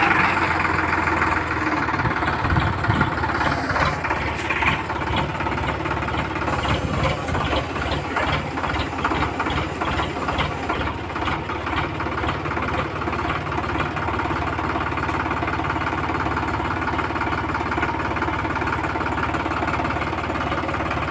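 Tractor diesel engine running steadily, with a regular pulsing knock.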